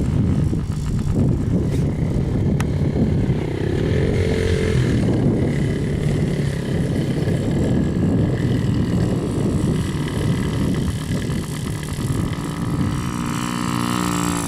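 Small children's dirt bike engine running on the track, its pitch rising and falling as the throttle opens and closes.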